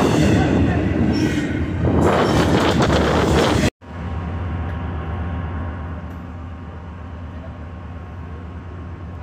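Double-stack intermodal freight train rolling past close by, a loud steady rush of wheels and cars. After a sudden cut about a third of the way in, a commuter-train diesel locomotive standing at the platform, its engine idling with a steady low hum.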